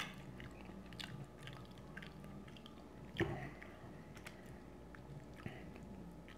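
A person chewing seafood in butter sauce close to the microphone: wet mouth sounds with small clicks and smacks, and a sharper smack about three seconds in.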